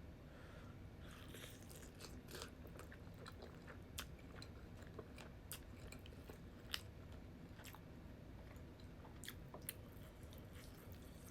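Close-miked chewing of food, soft and faint, with irregular wet mouth clicks and smacks; a few sharper clicks stand out.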